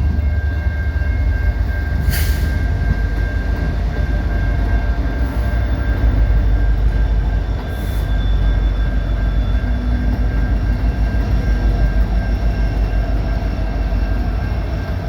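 Diesel locomotives of a CN freight (a GE ES44AC, an EMD SD75I and an EMD SD70M-2) rumbling past at close range, with a steady thin high tone over the low engine and rail noise.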